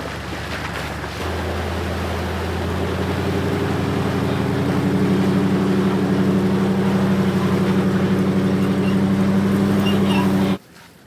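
A truck engine running under load, stepping up in pitch about a second in and growing louder over the next few seconds, then cutting off suddenly near the end.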